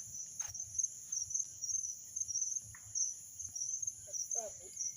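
Crickets chirping, a steady high pulsing trill, with a few faint clicks and a distant voice briefly near the end.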